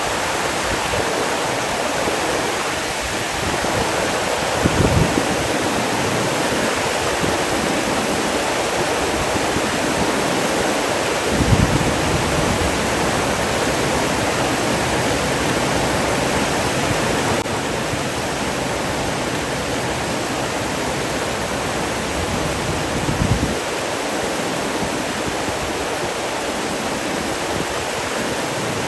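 Steady rush of flowing water, like a waterfall or fast stream, with a few brief low thumps.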